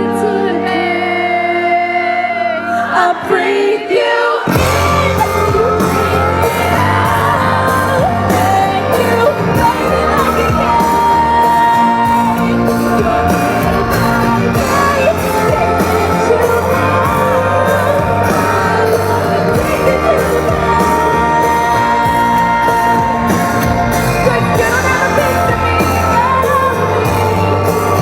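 Live pop song sung by a group of female voices in harmony. It opens over sparse held chords, and about four seconds in the full backing comes in with a steady drum beat under the vocals.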